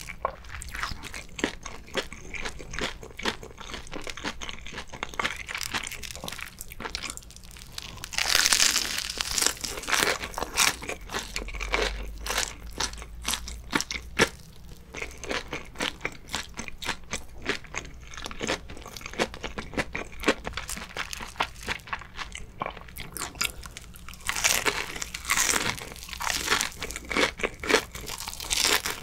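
Close-miked biting and chewing of a deep-fried mozzarella corn dog: the crisp batter crust crunches and crackles with each bite, with wet mouth sounds. Louder bursts of crunching come about eight seconds in and again near twenty-five seconds.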